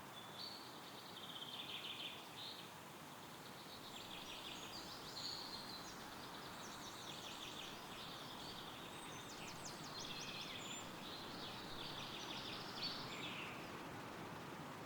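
Songbirds singing a run of quick trilled, chirping phrases, one after another, over a steady rush of wind through trees.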